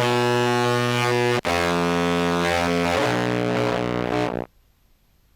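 Contrabass clarinet played through fuzz and effects pedals: long, heavily distorted low notes, changing pitch about a second and a half in and again at three seconds, then cut off sharply at about four and a half seconds.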